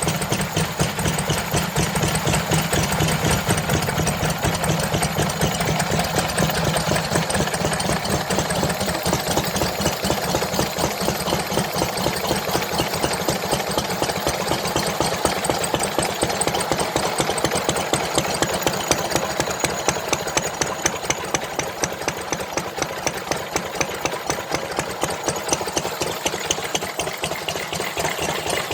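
Engine running steadily with a fast, even firing beat.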